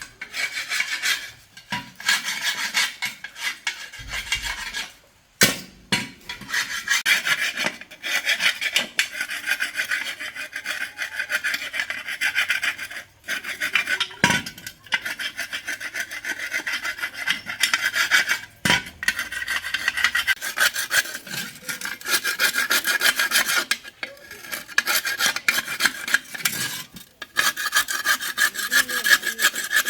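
Fast repeated rasping strokes of a hand tool, like a file or stiff brush worked back and forth on a part. They come in long runs broken by a few short pauses, with an occasional sharp knock.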